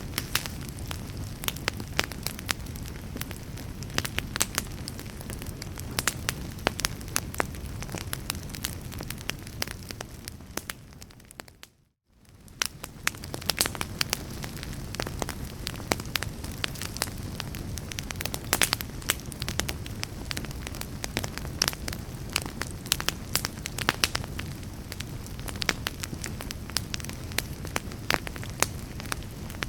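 Fire in a fireplace crackling, with frequent sharp pops and snaps over a low, steady rumble. About twelve seconds in, the sound fades out almost to silence and quickly fades back in.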